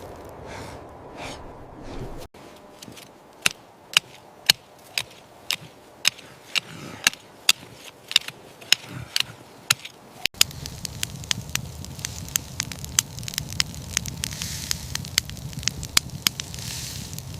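Irregular sharp crackling pops, about two a second, over a faint hiss. A little past halfway a louder low rumble and hiss join in under the pops.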